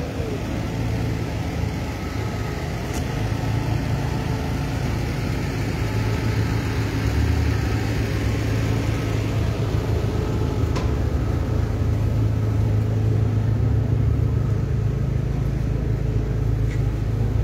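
A vehicle engine idling: a steady low rumble that grows slightly louder.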